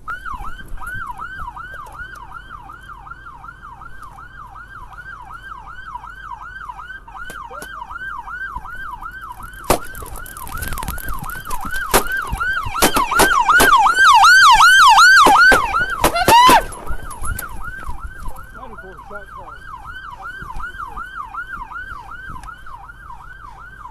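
Police car siren on a fast yelp, sweeping up and down about three times a second. About ten seconds in comes a volley of roughly a dozen gunshots spread over some seven seconds. This is the loudest part, and a second, higher warbling siren tone joins in during the volley.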